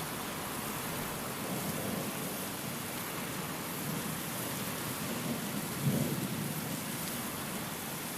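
Steady rain with low rumbles of thunder; the loudest rumble comes briefly about six seconds in.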